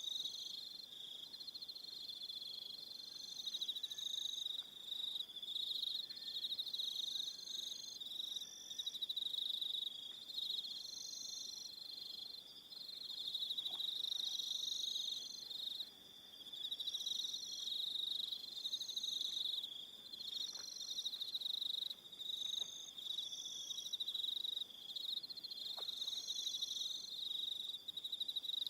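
An evening chorus of crickets: a steady high pulsing trill, overlaid by shorter, higher-pitched chirping bursts about a second long from other callers, coming and going.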